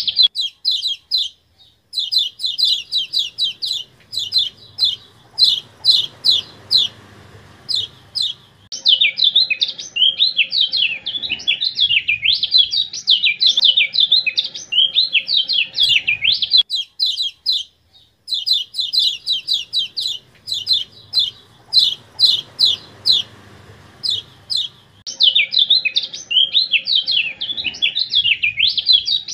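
Kecial kuning (Lombok white-eye) song: long runs of rapid, high, sharp chirps and trills, broken by two short pauses. The same sequence seems to repeat as a loop, as in an edited bird-training master track.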